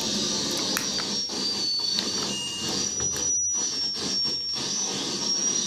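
Harsh noise from a chain of distortion pedals: a dense, crackling wall of distorted noise with thin, high whistling tones wavering on top.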